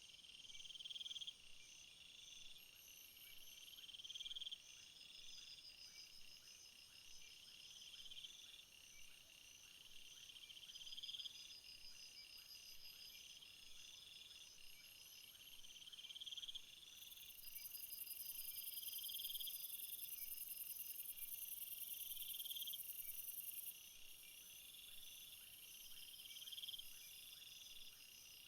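A summer insect chorus of crickets trilling and chirping, faint and high-pitched. One insect repeats a swelling phrase about every two seconds. A louder, very high buzzing trill joins in a little past halfway and stops abruptly about seven seconds later.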